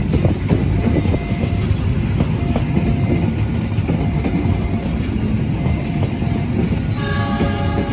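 Passing train: a loud, steady rumble with short clicks every half second to second, and a brief higher tone about seven seconds in.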